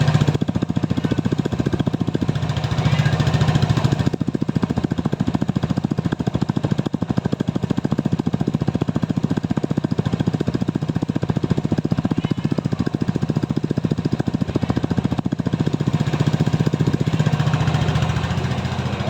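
Easyride 150Fi motorcycle's fuel-injected single-cylinder engine idling steadily after a cold start, a little louder in the first few seconds and again near the end.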